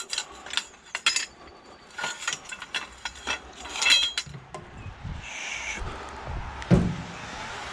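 Pieces of scrap metal clanking and clinking together as they are handled and dropped, a string of sharp ringing knocks. A brief high squeal comes about five seconds in, and a heavier thump near the end.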